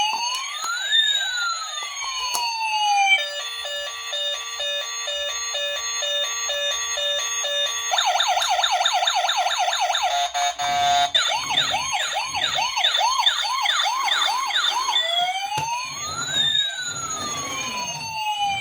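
Electronic toy siren cycling through its patterns: a rising-and-falling wail, then a stepped repeating tone, then a fast yelp, then the wail again. From about halfway on, a lower pulsing sound plays underneath.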